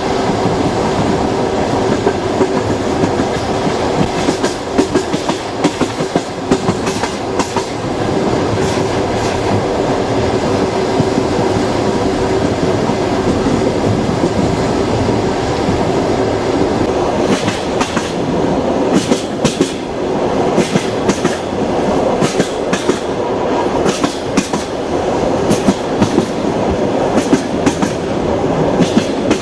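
Passenger train running at speed, with a steady rumble and hum and its wheels clattering over rail joints. The clacks grow sharper and more frequent in the second half.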